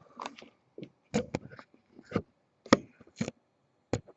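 Plastic wrapper of a trading-card pack crinkling and tearing as it is opened by hand: a string of short, sharp, irregular crackles.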